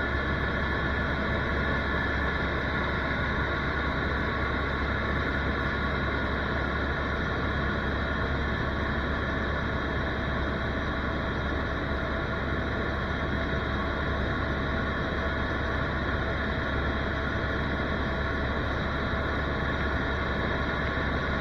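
Helicopter's engine and rotors running in steady flight: an even drone with several held tones and no change in level.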